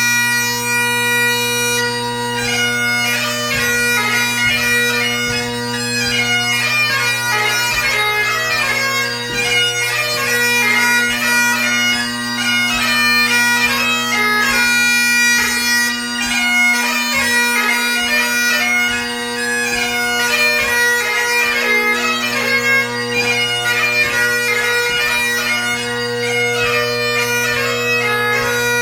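Great Highland bagpipe played solo: the bass and tenor drones hold a steady, unbroken chord under the chanter's fast, heavily gracenoted melody. The chanter holds one note briefly at the start, then moves quickly through the tune.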